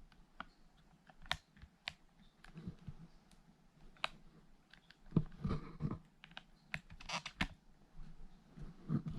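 Irregular light clicks and taps from hands handling small objects, with a few louder knocks about five and seven seconds in.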